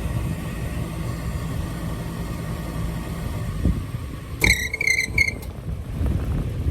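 Rooftop HVAC unit running with a steady low rumble, its blower motor the one that keeps kicking on and off. The tech suspects a malfunctioning control board. About four and a half seconds in come three short high-pitched chirps.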